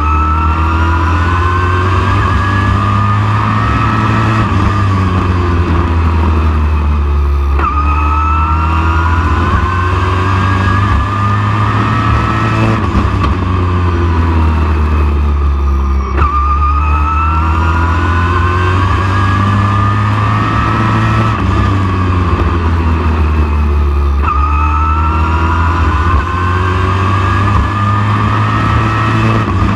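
Super truck race engine running at speed, climbing in pitch for about four seconds on acceleration and then easing off, in a cycle that repeats about every eight seconds over a steady deep drone.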